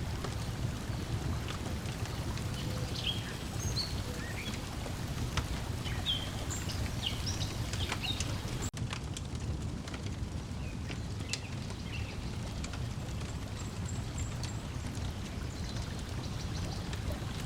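Layered lakeside ambience: water lapping with a steady low rush, a campfire crackling in scattered sharp pops, and birds chirping in short calls through the first half. The sound cuts out for an instant about halfway through.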